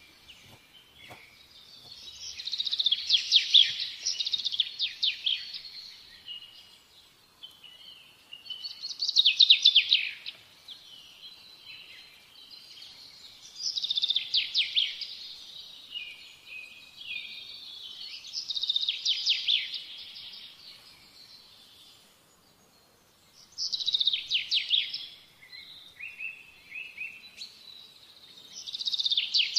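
A songbird singing: quick trilled phrases of high, rapid notes, each a second or two long, repeated every four or five seconds.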